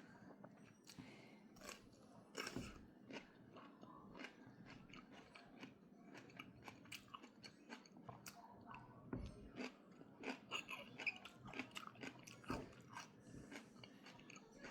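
A person chewing and crunching food close to the microphone: many small, irregular crisp crunches and mouth clicks, quiet overall.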